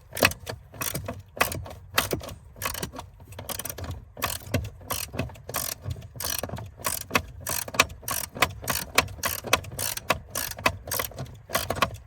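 Hand ratchet wrench clicking as it tightens the upper nut holding the remote start module on its stud, in quick runs of clicks with short pauses between strokes.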